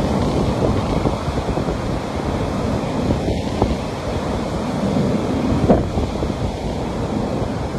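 Ocean surf washing onto a beach in a steady, surging rush, with wind rumbling on the microphone.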